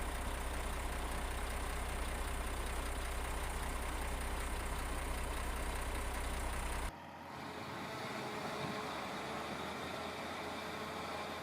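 Heavy earth-moving machinery engine running steadily with a deep hum. About seven seconds in, the sound cuts abruptly to a quieter, different machine noise without the low hum.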